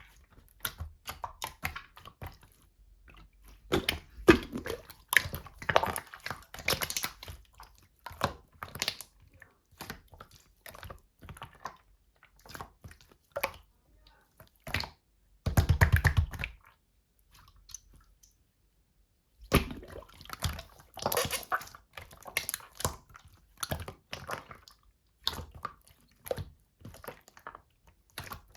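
Slime being squeezed, pressed and stretched by hand, giving sticky clicks, crackles and small air-bubble pops in irregular runs. A louder squish comes about halfway through, then the sound stops for a couple of seconds before the clicking resumes.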